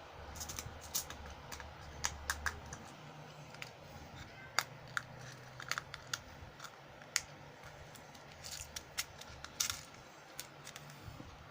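Packaging being handled and opened by hand, a run of irregular sharp clicks and crackles.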